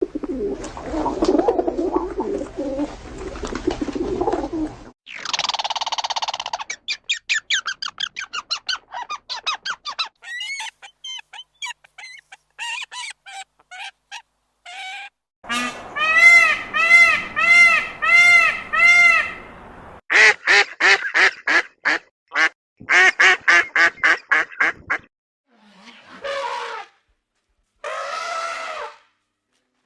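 A string of short animal-call clips, mostly birds and domestic fowl, cut one after another: rapid runs of short calls, then a row of about six repeated waterfowl calls around the middle, then more clipped calls with short gaps.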